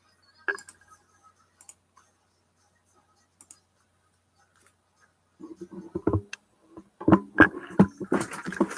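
A few sparse computer mouse clicks, then a printer starts up about five seconds in, running with a steady mechanical whir and a series of sharp knocks as it feeds and prints a page.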